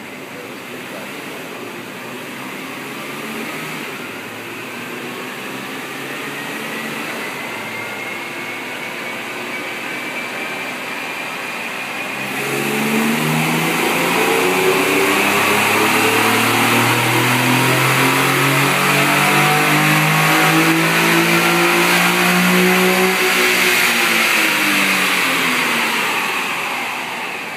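2012 Infiniti G37S's 3.7-litre VQ37 V6 running on a chassis dyno, rising slowly in revs at first. About twelve seconds in it turns sharply louder for a full-power pull, climbing steadily in pitch, then eases off near the end.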